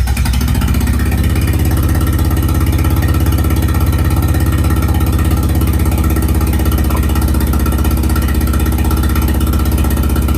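1987 Nissan 200SX S12's engine idling steadily just after being started, running on a freshly uploaded ECU map with a newly adjusted mass airflow sensor latency.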